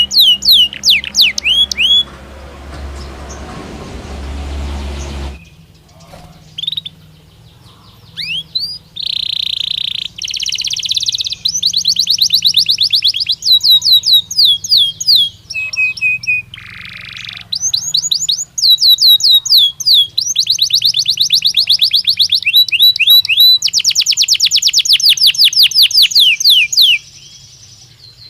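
A Belgian canary singing in rapid trills, each a fast run of repeated down-slurred notes, the phrases changing pace and pitch. A few seconds in there is a pause with a noisy, rumbling stretch before the song resumes. A faint low hum lies underneath.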